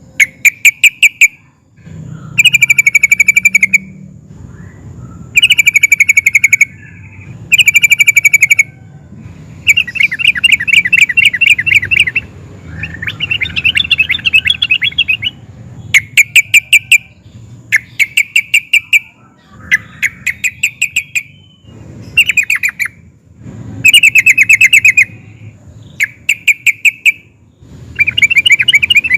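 Yellow-vented bulbul (trucukan) singing loud, rapid, bubbly phrases, each about a second long, repeated every couple of seconds over a faint low hum.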